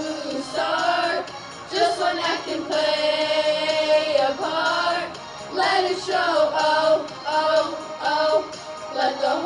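Girls singing a pop song in a group over a backing track.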